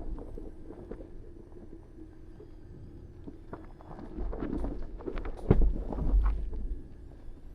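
Off-road 4x4 crawling slowly over a rocky trail: a low rumble with crunches and knocks from the tyres and chassis on rock. They get louder and more frequent from about four seconds in, with one sharp knock about five and a half seconds in.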